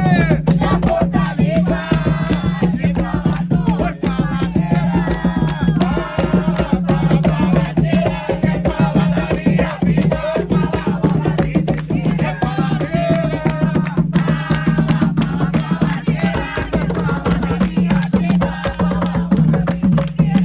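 Umbanda ponto music: atabaque hand drums beating a steady fast rhythm with a rattle, under voices singing a chant.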